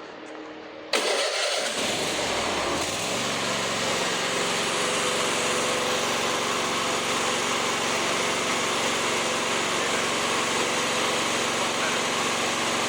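Riding lawnmower's twin-cylinder engine starting about a second in, spinning up over the next two seconds and then running steadily. This is a test run after new spark plugs and a fuel filter, to see whether a misfire is cured.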